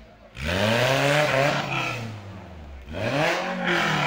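Modified 4x4's engine revved hard twice: each rev climbs in pitch and then falls away, the first starting about a quarter second in and the second about three seconds in. This is the engine pulling the vehicle over rough off-road ground.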